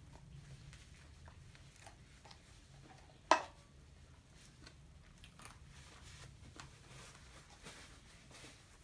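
Close-up chewing and biting of food, soft mouth clicks throughout, with one sharp, loud crunch about three seconds in.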